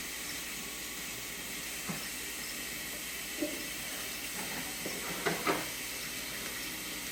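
Steady hiss of water in a kitchen, with a few light knocks and clatters about two, three and a half, and five and a half seconds in.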